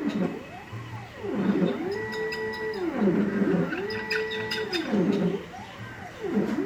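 Stepper motors of a CNC laser cutter driving the head, a whine that rises and falls in pitch as the axes speed up and slow down, holding one steady pitch on two straight runs in the middle.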